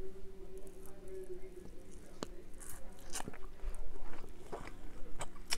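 Close-miked chewing of a mouthful of food: wet mouth sounds and sharp crunchy clicks, sparse at first and coming more often from about two seconds in.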